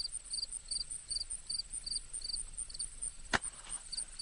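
Insect chirping: a short high chirp repeating evenly, about two or three times a second, over a steady very high trill. A single sharp click comes a little over three seconds in.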